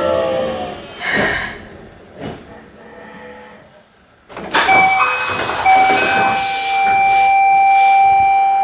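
Keikyu 600-series electric train coming to a stop: the motor whine falls away in pitch at the start, and brake air hisses about a second in. Halfway through, a loud rush of air comes as the doors open, followed by a steady high electronic tone.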